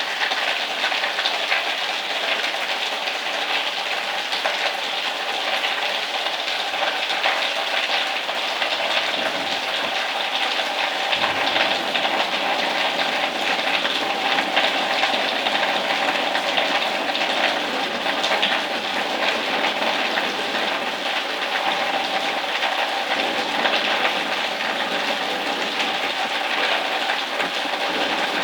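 Heavy rain falling steadily, an even hiss with a fine crackle that holds at the same level throughout.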